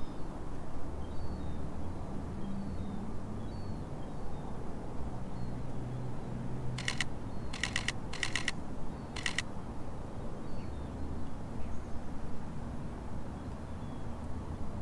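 Camera shutter firing in four short bursts of rapid clicks about halfway through, over a steady low background rumble.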